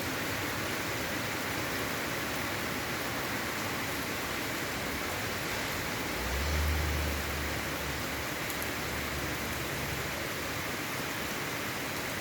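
Steady rain falling, an even hiss of drops. About six seconds in, a low rumble swells and fades over a few seconds.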